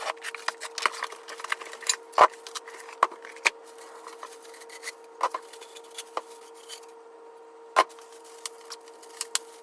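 Unboxing and handling a new aftermarket exhaust header: irregular clicks, knocks and rubbing of packaging and metal parts, the loudest knocks about two seconds in and near eight seconds, over a faint steady hum.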